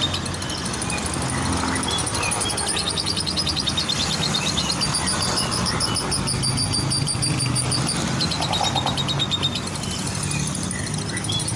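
Lovebirds chattering in rapid, high trains of chirps several seconds long, one in the middle and another near the end, over a low steady rumble.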